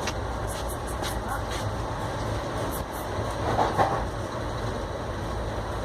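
Steady low rumble of a moving passenger train heard from inside the carriage, with a few faint clicks and a brief louder sound about three and a half seconds in.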